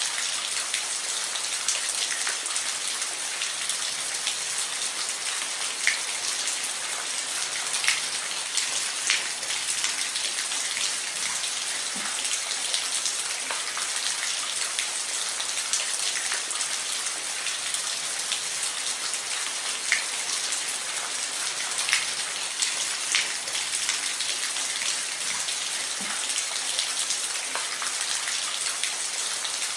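Steady rain falling on a roof, a constant hiss with scattered louder individual drops tapping.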